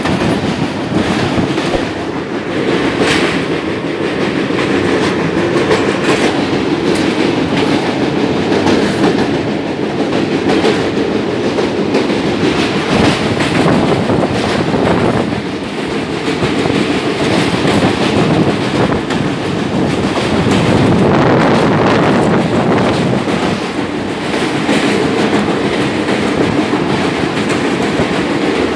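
Passenger train running at speed, heard from its own open window: a steady loud rumble of wheels on rails with irregular clickety-clack over the joints, crossing a river bridge.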